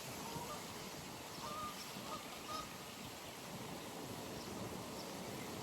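Pond ambience: faint, short bird calls every second or so over a steady background hiss.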